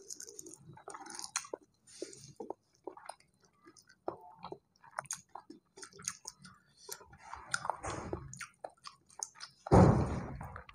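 Close-miked chewing and mouth sounds of a man eating rice and chewy chicken gizzards by hand, with small scattered clicks and smacks; a loud rush of noise about a second long comes near the end.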